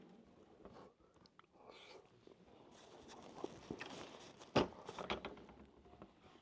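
A person chewing food close to the microphone, with faint mouth clicks and a sharper click a little past halfway.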